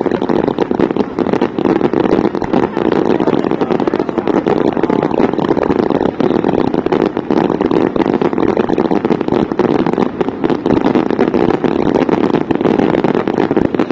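A long, loud, unbroken crackle of fireworks or firecrackers going off close by: countless rapid pops run together into one dense rattle.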